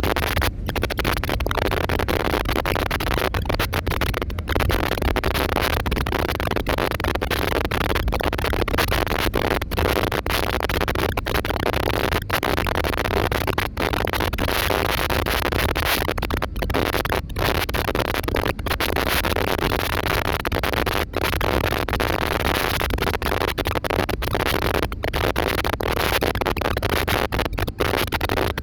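Airliner cabin noise: a steady, loud rushing roar with many brief dropouts.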